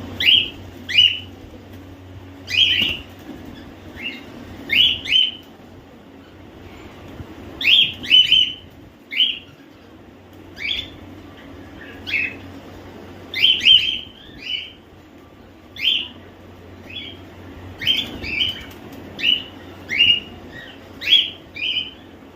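Cockatiels calling: short, sharp upward-sweeping chirps, some single and some in quick pairs or threes, repeated irregularly about once a second over a low steady hum.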